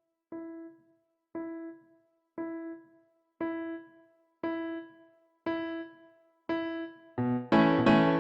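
Background music on piano: one note repeated about once a second, each strike fading out and a little louder than the one before. Near the end, full chords with a bass line come in.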